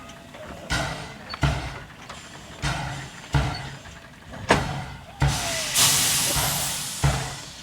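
Narrow-gauge steam locomotive working slowly, its exhaust chuffing about once every 0.7 seconds. A loud hiss of escaping steam starts a little before the six-second mark and fades away over about a second and a half.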